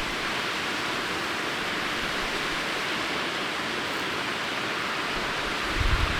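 Waterfall rushing in a steady, even hiss. Near the end, low wind buffeting on the microphone comes in.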